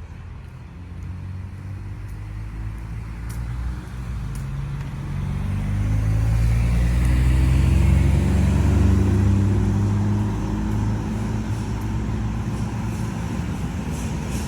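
A motor vehicle passing close by on a city street, its engine note rising in pitch as it speeds up. It is loudest a little past halfway, then fades slightly.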